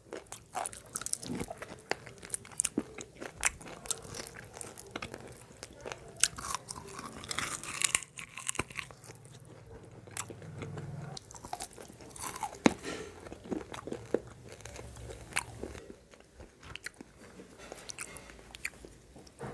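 Close-miked chewing and crunching of crisp food in the mouth, with many sharp, irregular crunches.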